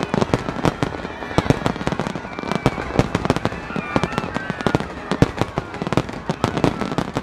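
Fireworks finale barrage: many aerial shells bursting in quick succession, a dense, unbroken run of bangs and crackles.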